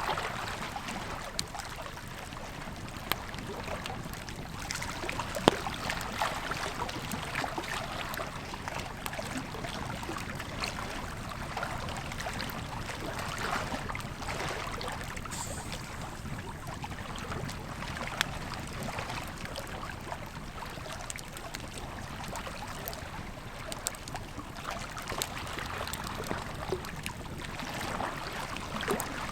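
Wood campfire crackling, with scattered sharp pops (the loudest about five seconds in), over the steady rush of a flowing river.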